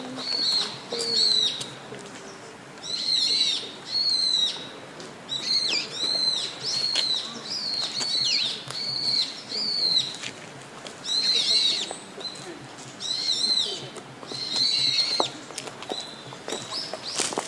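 Birds chirping: many short, arched chirps repeated in quick clusters throughout, with a few sharp clicks near the end.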